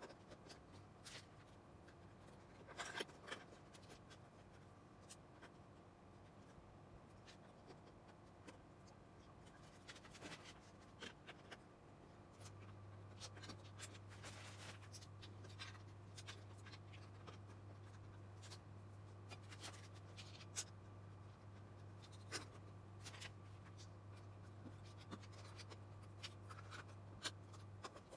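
Faint clicks, taps and light rustling of LEGO pieces being handled and pressed together. A low steady hum joins about halfway through and cuts out near the end.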